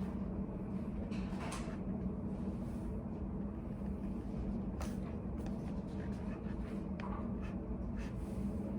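Steady study-cafe room noise with a low hum, broken by a few faint short clicks and knocks.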